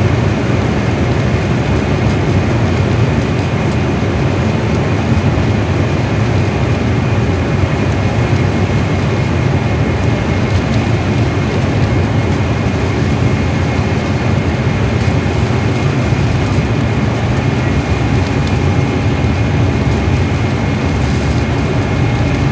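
Steady jet engine and cabin noise inside an Airbus A320 on the ground at takeoff time, mostly low rumble with a faint high whine above it.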